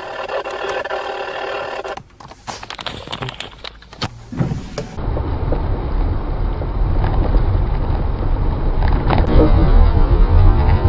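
A steady pitched tone with many overtones for about two seconds, then a few sharp clicks and knocks. About halfway through comes a loud low rumble of a car on the move, the road and wind noise of a dashcam recording, growing louder towards the end.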